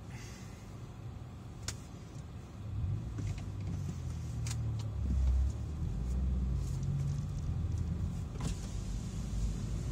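Kia cee'd GT's 1.6-litre turbocharged four-cylinder petrol engine heard from inside the cabin as the car moves off: the low engine note rises about three seconds in and stays up as it drives away. A few sharp clicks sound over it.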